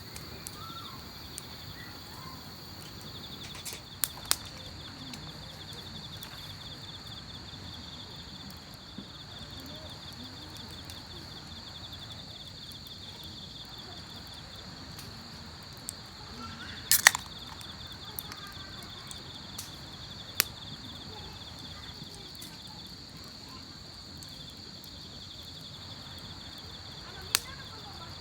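Insects chirping in a steady, high, pulsing trill, with a few sharp snaps scattered through it; the loudest is a quick cluster about 17 seconds in.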